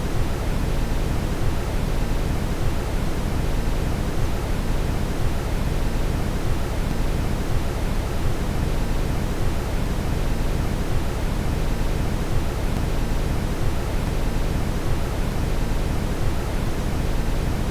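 Steady brown noise: an even, unbroken rumbling hiss, heaviest in the low end.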